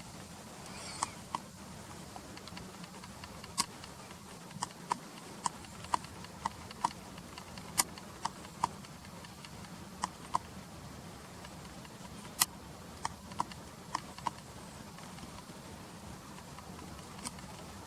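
Irregular sharp clicks, about twenty scattered through, over a faint steady low hum.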